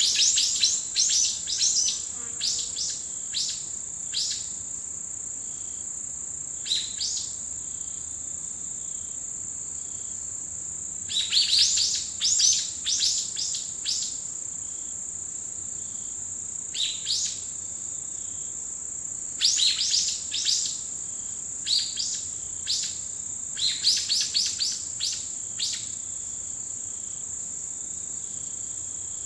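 Birds calling in quick runs of short, downward-sweeping notes, the runs coming every few seconds, over a steady high-pitched trill of autumn insects.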